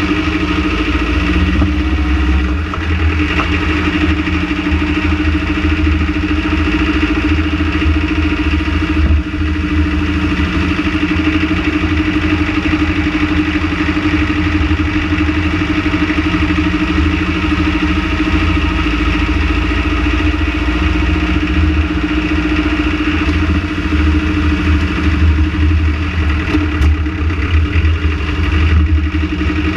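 Renault Trafic van engine idling steadily.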